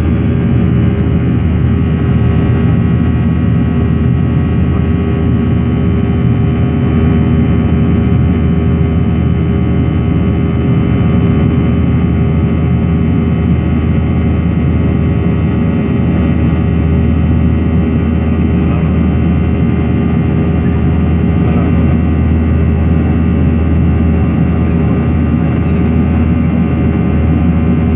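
Cabin noise of a Boeing 737-900ER airliner, heard from inside the cabin. Its CFM56-7B turbofan engines and the airflow give a loud, steady rush, with several steady whining tones on top that stay unchanged throughout.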